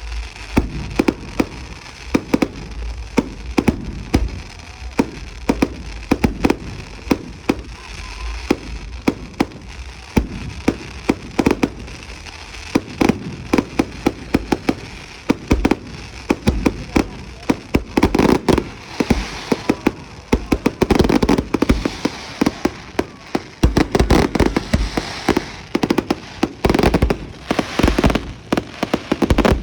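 Fireworks going off: a continuous run of sharp bangs and crackles, coming thicker and louder in the second half.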